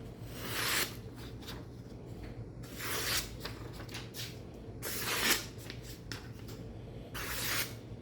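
Four long scraping strokes, about two seconds apart, each swelling and then stopping short.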